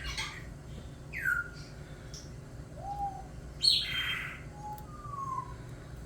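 Hatching kite chick peeping: a few short, thin calls, several sliding down in pitch, with one louder, harsher burst a little past halfway.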